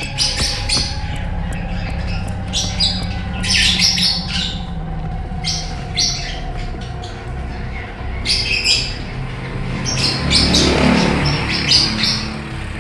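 Mixed birds in a colony cage, canaries with lovebirds and budgerigars, chirping and squawking in many short overlapping calls over a low steady hum.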